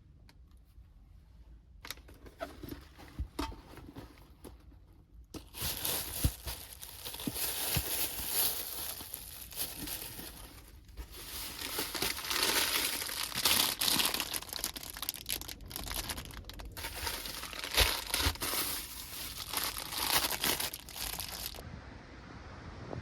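Crinkling and rustling, like plastic or paper being handled: a few scattered crackles at first, then steady dense crinkling for about fifteen seconds that stops abruptly.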